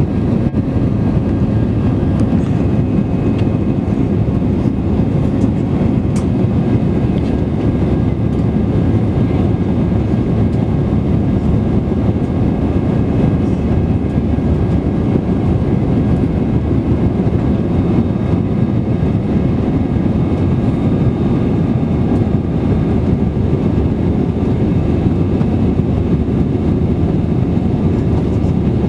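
Steady cabin roar inside an Airbus A320-200 in flight: engine and airflow noise, mostly a low rumble, unchanging throughout.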